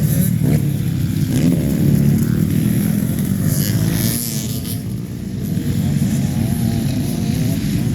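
Motocross bikes racing on the track, their engines revving and shifting pitch as they ride.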